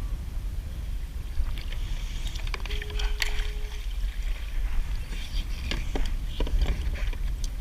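Kayak on the water under paddle: scattered splashes and drips of paddle strokes over a steady low rumble, with one short steady tone about three seconds in.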